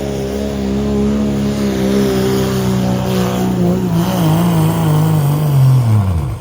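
Pro street diesel pickup truck engine under full load pulling a sled, running high and steady. From about four seconds in its pitch sags, then falls away fast near the end as the pull ends.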